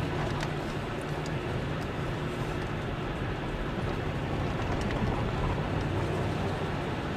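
Steady motor-vehicle engine hum with road noise and occasional light rattles.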